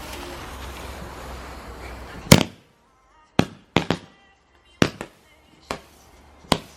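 A firework hissing steadily, then going off in a string of sharp bangs: a loud first bang a little over two seconds in, then six smaller cracks over the next four seconds.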